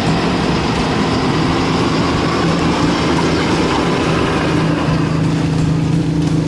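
Boat motor running steadily under way, a constant engine hum over rushing water and wind noise.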